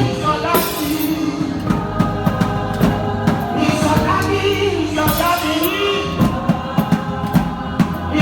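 Live gospel music: voices singing over a band with drum kit and bass, with a steady beat.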